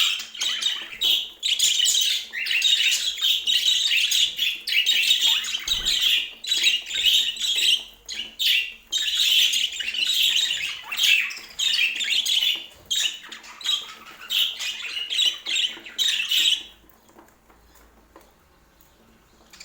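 Budgerigar chattering and warbling in a dense, busy stream of chirps and squawks that stops suddenly near the end.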